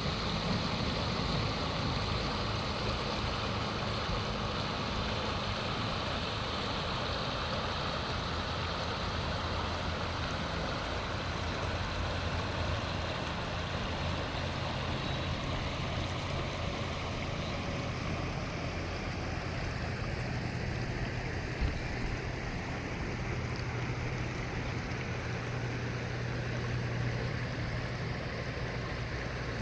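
Flowing river water rushing steadily, with a steady low hum underneath and a single short knock about two-thirds through.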